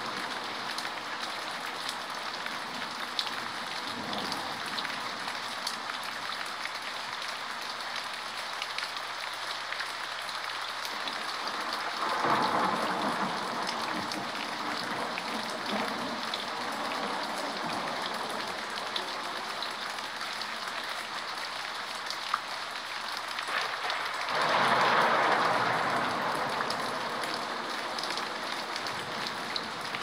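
Steady rain falling, with two rolls of thunder, one about twelve seconds in and another about twenty-five seconds in, each swelling and fading over a few seconds.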